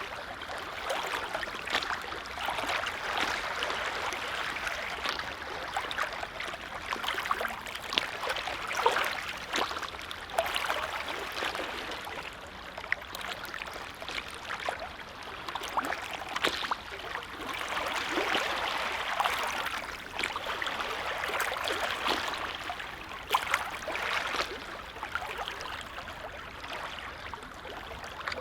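Small waves on a calm lake lapping, a steady wash of water with little splashes that swells and eases every few seconds.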